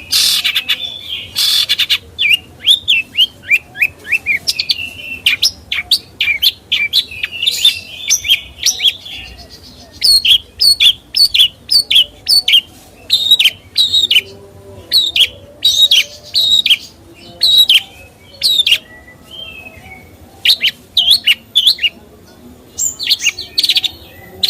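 A songbird singing a long, loud run of sharp chirps and quick whistled notes: fast strings of notes early on, then evenly repeated chirps about two a second, broken by short pauses.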